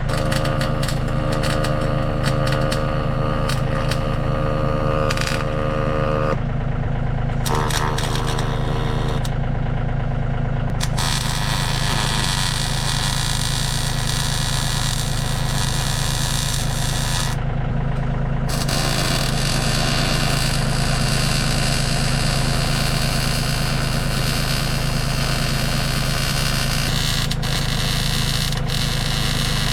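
Engine idling steadily. About eleven seconds in, a loud steady hiss joins it, stops for about a second a few seconds later, then carries on.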